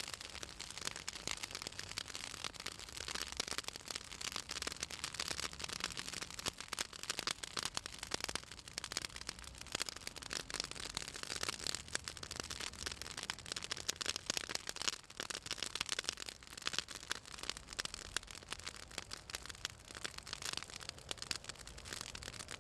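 Southern magnolia branches burning in an open fire, crackling continuously with many irregular sharp pops and snaps. The oil in the magnolia wood and leaves makes them pop as they burn.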